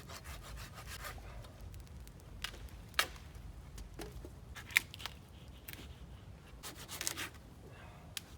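Irregular rubbing and scraping handling sounds, with sharp clicks about three seconds in and again near five seconds, and a short run of scrapes about seven seconds in.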